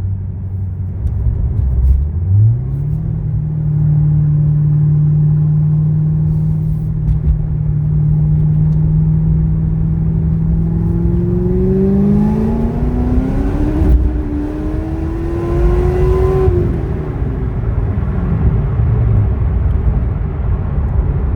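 2010 Corvette ZR1's supercharged 6.2-litre V8 under way: it runs steadily, its revs step up and hold, then climb steeply for about five seconds under part throttle before the driver lifts off and the revs fall away.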